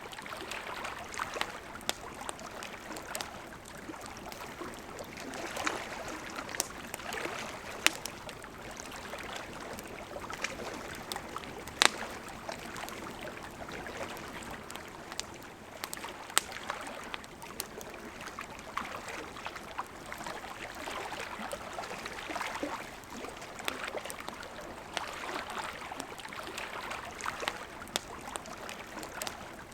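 River water flowing steadily, with a wood campfire crackling over it in scattered sharp pops; the loudest pops come about 8 and 12 seconds in.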